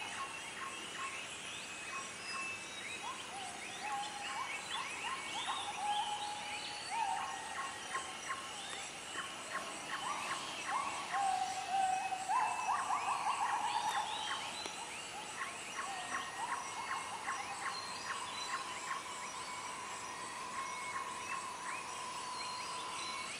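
Dawn chorus of the Bornean lowland rainforest: Müller's gibbons singing repeated rising, trilling phrases among many short bird calls, with a steady insect drone coming in during the second half.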